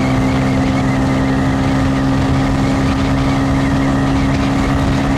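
Motorcycle engine holding a steady note while cruising at constant speed, with wind rumbling on the microphone.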